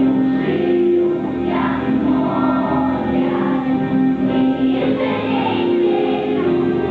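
A group of voices singing together as a choir, with instrumental accompaniment holding steady notes underneath.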